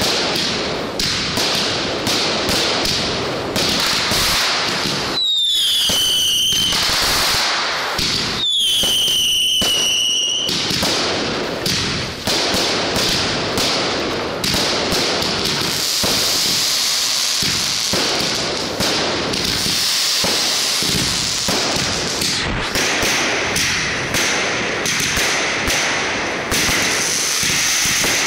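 Consumer fireworks going off in a fast, continuous string of bangs and crackles, with two short whistles falling in pitch partway through and a high steady whistle near the end.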